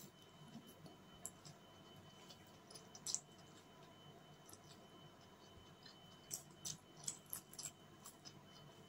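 Faint, scattered wet clicks of someone eating chow mein with a fork, chewing a mouthful of noodles. The clicks come irregularly, one sharper click about three seconds in and a quick run of them between about six and eight seconds.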